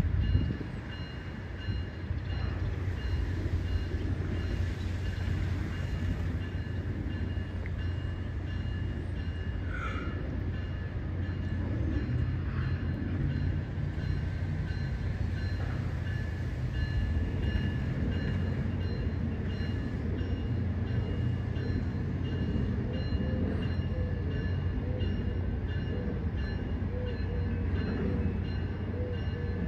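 Train rolling past: a steady, continuous rumble of wheels and cars on the rails.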